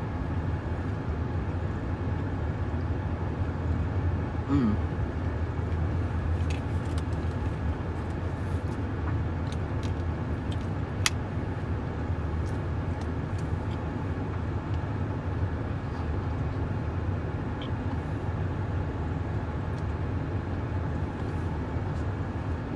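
Steady low rumble of a car, even throughout, with one sharp click about halfway through.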